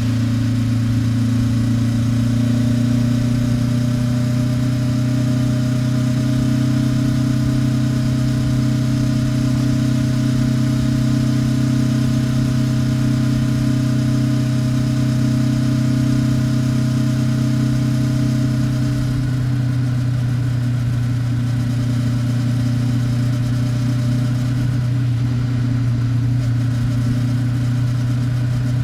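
Exhaust of a Honda 400X's stock muffler, with its 399 cc parallel-twin engine, running at a steady, unchanging engine speed while the motorcycle cruises.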